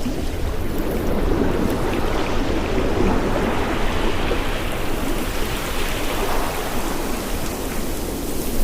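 Ocean surf washing on a shore: a steady rushing wash of breaking waves that swells and eases a little.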